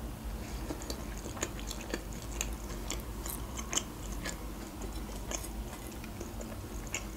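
A person chewing Azerbaijani khinkal, soft boiled dough with fried meat and onion, with many small wet mouth smacks and clicks scattered throughout.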